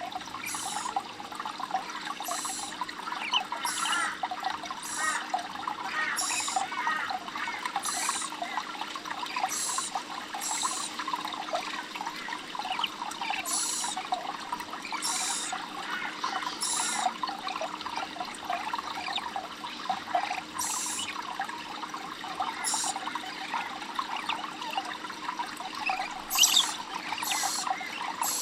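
Water trickling and babbling steadily, with short, high-pitched bird calls every second or two and a quick cluster of them near the end.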